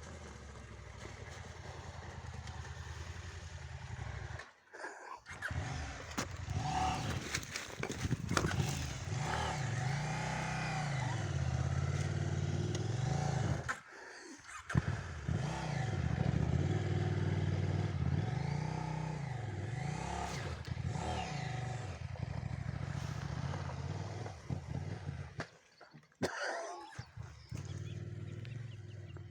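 Trail motorcycle engine revving up and down again and again as it is ridden, its pitch rising and falling in waves. The sound breaks off briefly three times.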